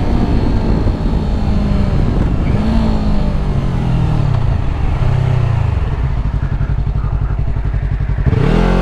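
Yamaha R3's 321 cc parallel-twin engine under hard throttle, its pitch climbing and dropping through gear changes, easing off in the middle and opening up again near the end.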